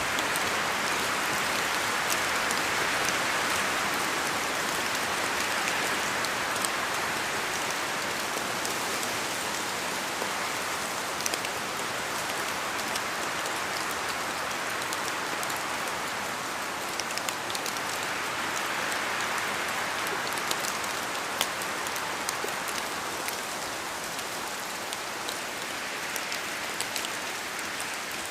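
Steady rain falling in a forest, a continuous hiss that slowly swells and eases, with scattered sharper drops pattering down from the trees.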